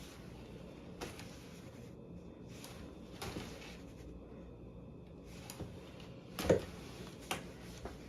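Scattered handling sounds of wire and tools being worked by hand: a few small clicks and knocks over a low background, the loudest knock about six and a half seconds in.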